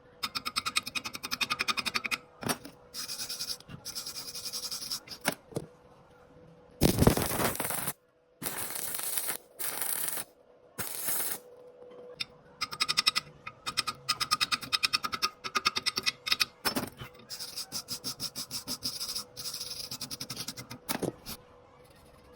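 Electric arc welding on steel bar: a dense, fine crackle that starts and stops in a series of short runs with brief pauses between them. A louder rushing burst comes about seven seconds in.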